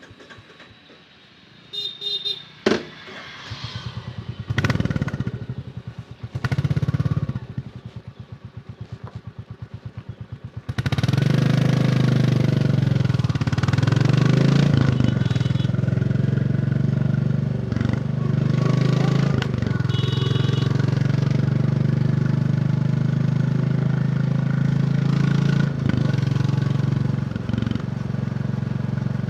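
Royal Enfield Bullet 350's single-cylinder engine catches about three seconds in, then idles with an even, rhythmic beat, revved twice. About eleven seconds in the bike pulls away and the engine settles into a loud, steady cruising note with road and wind noise.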